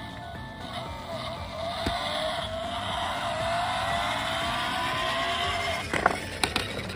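Race car engine sound revving up, its pitch rising steadily for several seconds, followed by a few sharp clicks near the end.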